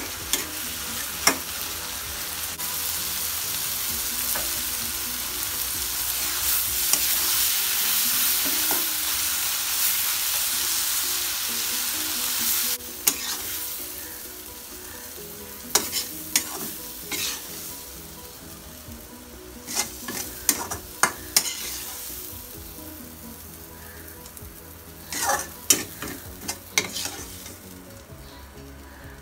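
Shrimp and red amaranth leaves stir-frying in a metal wok: a loud, steady sizzle with a metal spatula scraping and clicking against the pan. Just under halfway through, the sizzle drops off sharply. After that come quieter, separate scrapes and clinks as the spatula scoops the food out of the wok onto a plate.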